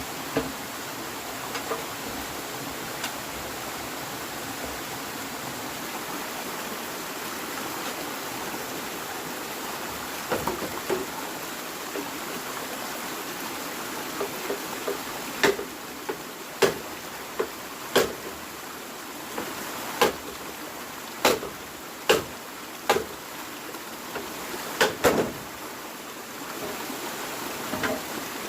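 A steady rushing noise, with sharp knocks or chops from about halfway on, coming roughly every one to two seconds, some in quick pairs.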